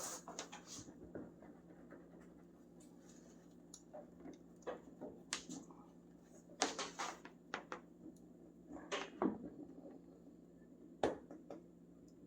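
Intermittent short scratching and scraping handling noises with a few sharper knocks, from hands and a cord working at a truck windshield's rubber seal, over a steady low hum.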